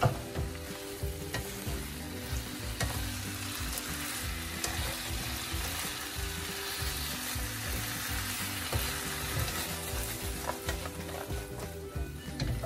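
Chicken and peppers sizzling in gravy in a wok over a gas flame while a wooden spatula stirs and tosses them. The sizzle is steady, with scattered light taps and scrapes of the spatula against the pan.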